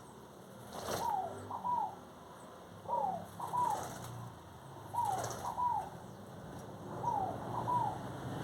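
A bird calling: a pair of short notes that fall in pitch, given four times about two seconds apart.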